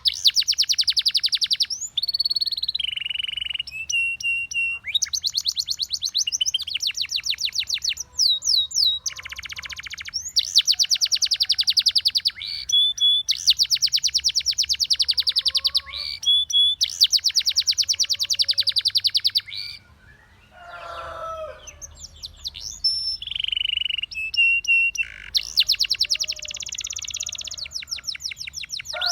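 Canary singing: long runs of fast rolling trills of rapidly repeated high notes, broken by short pauses, with a lower warbling phrase about two-thirds of the way through.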